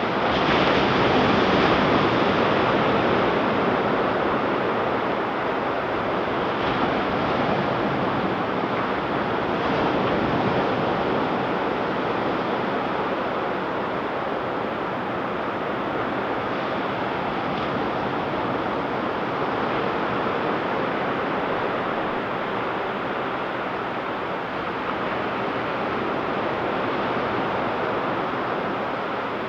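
Ocean surf breaking and washing on a beach: a continuous wash of waves, swelling loudest about two seconds in and with gentler swells after.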